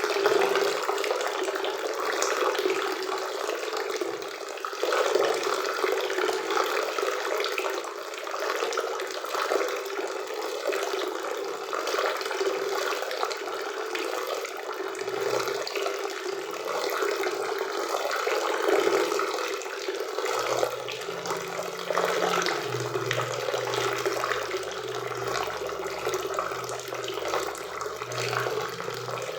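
Waterfall on a forest river: water rushing and splashing in a steady, unbroken wash.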